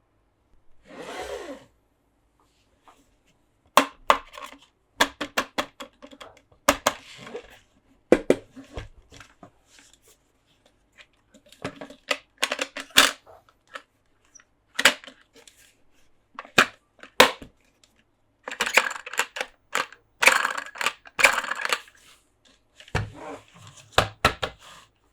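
Plastic toys and packaging being handled close to the microphone: a string of sharp irregular clicks and taps, with bouts of rustling about a second in and again from about 18 to 22 seconds.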